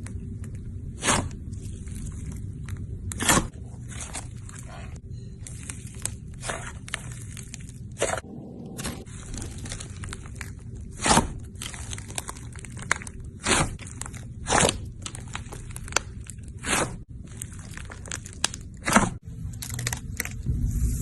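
Slime being squeezed and pressed by hand, giving irregular crunchy pops and crackles, a dozen or so of them sharper and louder than the rest, over a steady low rumble.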